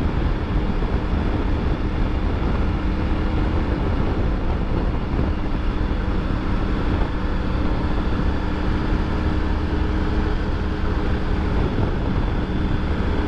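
Triumph Tiger 900 GT's inline three-cylinder engine running at a steady cruising speed, with wind and road noise from riding.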